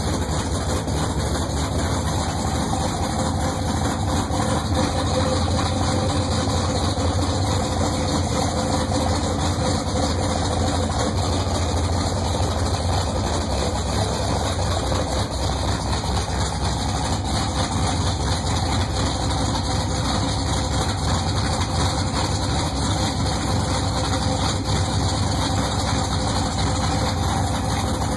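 A 1970 Pontiac Trans Am's V8 engine running steadily during its first run after being rebuilt, with no change in engine speed.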